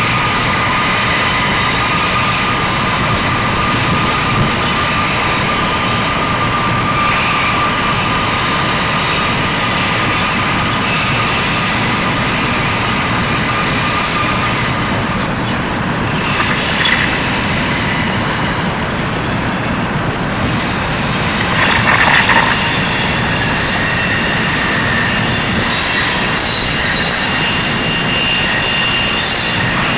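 Freight cars of a Union Pacific manifest train rolling past: a loud, steady rumble of wheels on rail, with steady high-pitched squealing tones running over it.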